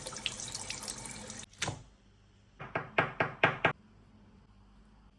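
Water running from a kitchen tap that cuts off about a second and a half in. Then a single knock, and a second later a quick run of about five sharp knocks.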